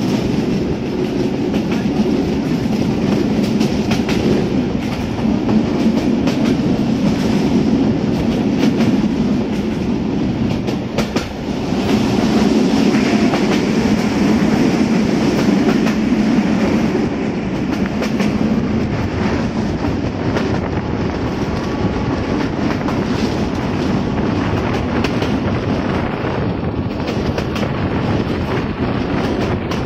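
Passenger train coach running along the track, a steady rumble with the wheels clattering over the rails, heard from the window of the moving coach.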